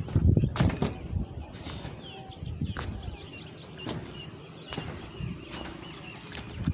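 Scattered irregular knocks and thuds, with small birds chirping in the background.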